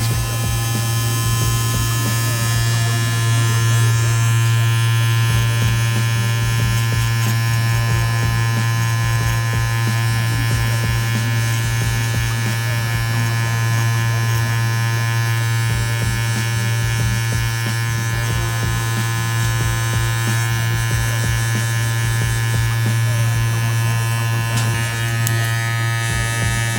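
Cordless hair clipper running steadily with a low motor hum while its blade cuts through hair.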